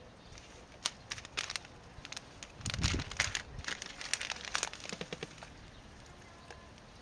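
Plastic packaging crinkling and rustling as it is handled, in irregular short bursts, with a dull knock about three seconds in.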